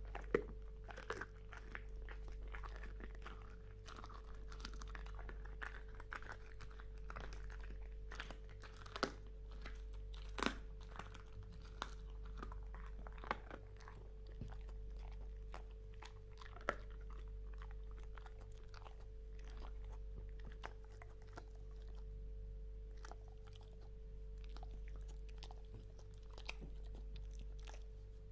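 A dog chewing and crunching on something hard, with irregular small clicks and a few sharp louder cracks, over a steady faint hum.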